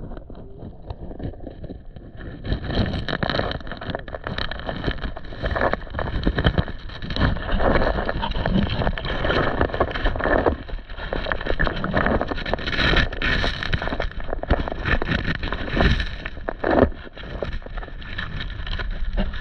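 Creek water splashing and sloshing close to the microphone, with scattered knocks and bumps, as crawdads are hunted in the shallows.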